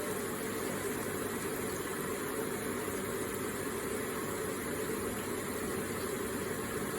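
Electric water feature: water falling and splashing in a steady, even rush with no breaks.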